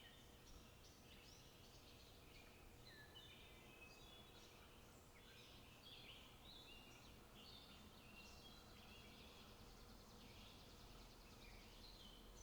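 Faint birdsong: several small birds singing at once, a continuous chatter of short chirps and trills, over a low steady background noise.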